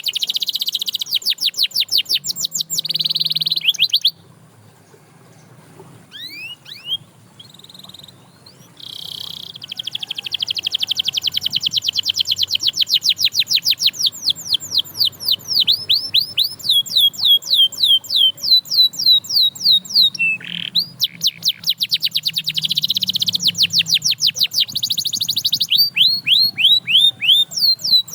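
Canary singing: fast rolling trills of rapidly repeated notes. A near-pause with only a few scattered notes comes about four seconds in, then long runs of quick falling notes.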